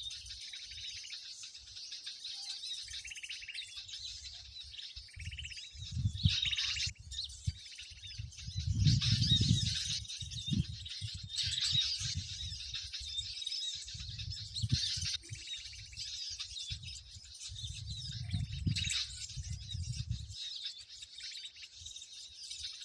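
Many small birds chirping and chattering all at once in a dense, continuous chorus: the 'noisy birds' lure sound used to draw birds to birdlime. Low rumbling thumps come and go underneath.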